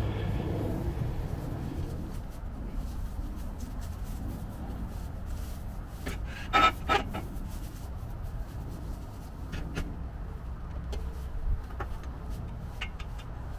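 Metal solar-panel ground-mount frame being shifted onto a ground-screw anchor bracket: a loud pair of knocks about six and a half seconds in and a few lighter clicks, over a steady low rumble.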